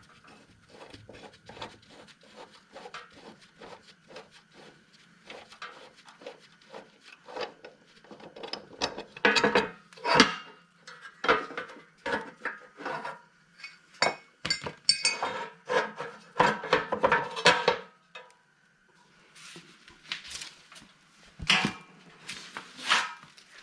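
Irregular metal clinks, knocks and rattles as a lawnmower blade's nut is spun off by hand and the steel blade is taken off, getting busier and louder partway through.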